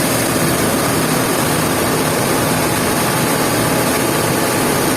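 Sawmill machinery running with a steady, even noise that holds the same level throughout.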